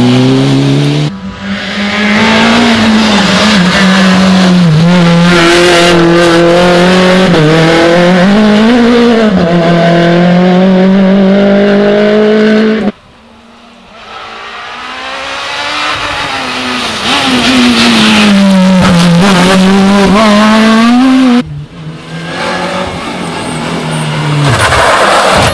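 Rally car engines at high revs going past, the engine note rising and falling with throttle and gear changes. About halfway through the sound cuts off abruptly, then another car is heard approaching and growing louder. Near the end comes a second sudden cut, and the engine sound builds again.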